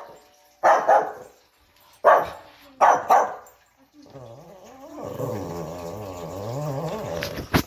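Shih Tzu barking at a doorbell chime: a few sharp barks, then a long growl with a wavering pitch from about four seconds in.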